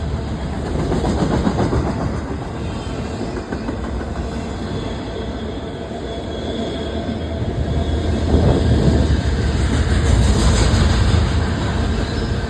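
Canadian Pacific train rolling past, with a steady rumble and wheels clacking on the rails. It grows louder about two-thirds of the way through.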